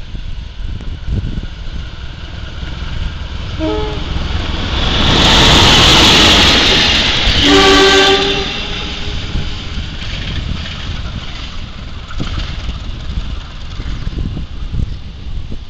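CC201 diesel-electric locomotive and its passenger coaches passing close by, loudest as the locomotive goes past, with the wheels clattering over the rails. The horn gives a short toot about four seconds in and a longer blast as the locomotive draws level. Then the rumble of the coaches fades as the train moves away.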